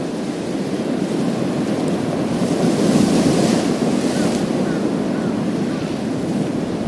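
Sea waves breaking and washing over a pebble beach: a steady low surf rumble, with one wave surging and hissing up through the stones about three seconds in.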